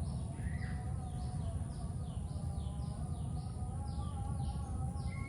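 A bird calling over and over, each call a short falling note, about two a second, over a steady low rumble.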